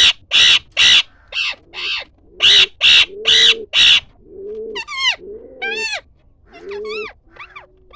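A bird calling. First come loud, harsh squawks in quick succession, about two a second, in two runs. Then, from about halfway in, quieter calls that rise and fall in pitch.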